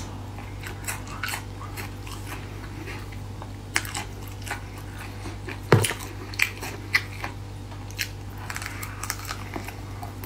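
Chewing and biting through spicy braised beef skin and a chicken foot: wet mouth clicks and small crunches scattered through. One sharper knock comes about six seconds in.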